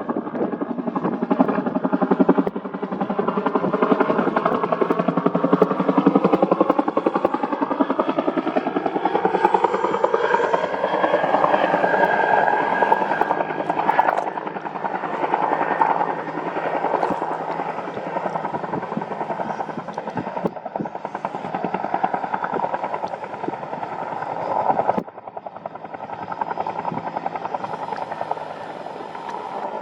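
Bell UH-1N twin-turbine helicopter flying by, its rotor beating in a fast steady rhythm while the pitch slides down as it passes. The sound drops suddenly about 25 seconds in and continues more faintly.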